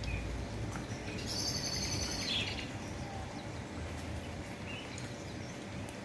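A small songbird gives a rapid, high trill of about a second, starting a little over a second in, with a few faint chirps later, over steady low background noise.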